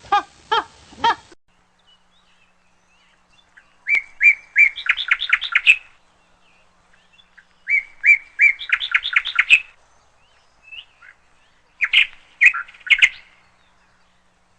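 A run of repeated honking calls about three a second, cut off abruptly about a second in, then a songbird singing three separate phrases, each a few clear notes followed by a rapid trill.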